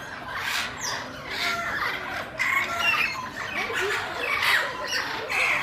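Parrots and other caged aviary birds squawking and chattering, a dense, continuous mix of many short calls.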